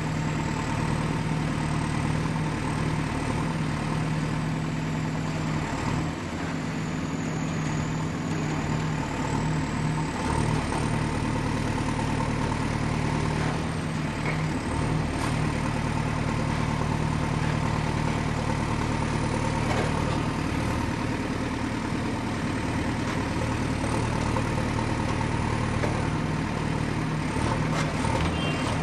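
Excavator's diesel engine running at a steady speed, with a thin high whine that drifts slightly in pitch over the top.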